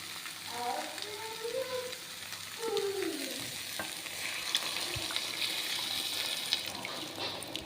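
Potato-and-pea curry sizzling in a pan while it is stirred, just after the boiled peas go in, with a few sharp clicks of the spoon against the pan.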